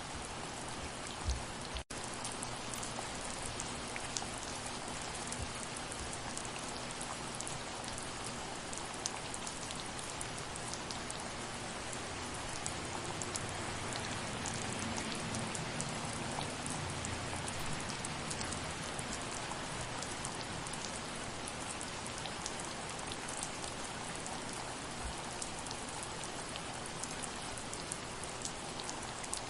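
Soft rain falling steadily, an even hiss with individual drops ticking through it. It cuts out for a split second about two seconds in.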